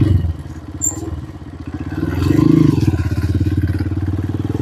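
Motorcycle engine running steadily on the move, growing louder about two seconds in as it picks up.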